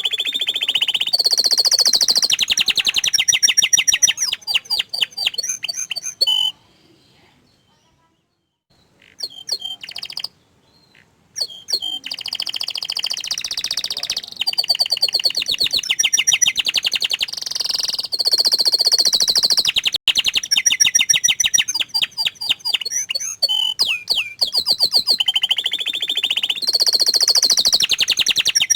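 Domestic canary singing: long, loud song phrases of rapid trills and chirps, broken by a pause of several seconds about a quarter of the way in, with a short phrase in the middle of the pause.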